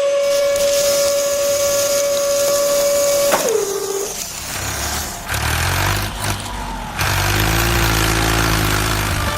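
Small electric motor whining at a steady pitch, then dropping in pitch and stopping about three and a half seconds in, followed by hissing noise and then a low droning hum.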